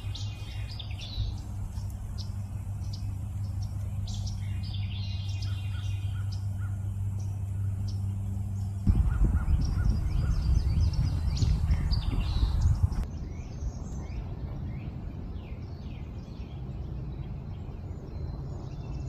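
Several wild birds chirping and calling at once, short repeated notes and trills, over a steady low outdoor rumble. About halfway through, a louder rush of low noise lasts about four seconds.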